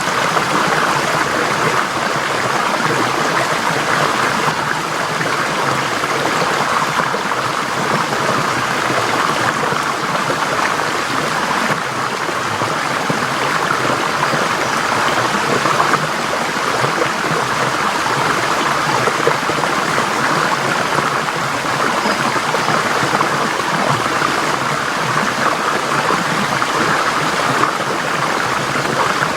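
Forest stream flowing steadily over rocks, a continuous rushing babble of water.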